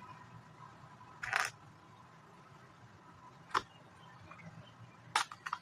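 Plastic Lego bricks handled and pressed into place: a short scrape about a second in, a single sharp click past halfway, and a quick run of clicks near the end.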